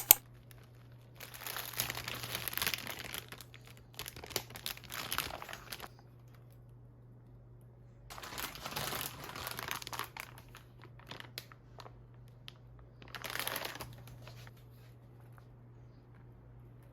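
Packaging crinkling and rustling in four separate bursts of a second or two each.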